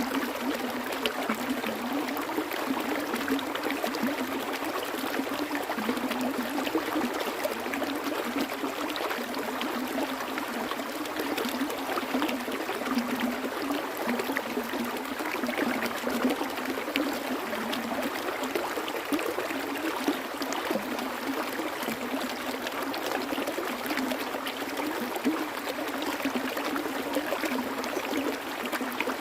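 Stream water flowing and trickling steadily, with small gurgles and splashes.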